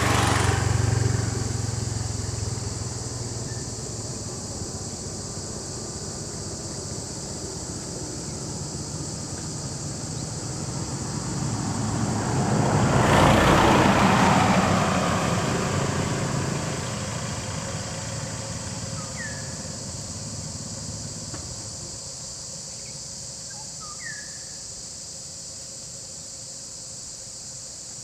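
A vehicle's engine runs and swells up loudly about halfway through, then fades away, over a steady high drone of insects. A few short bird chirps come near the end.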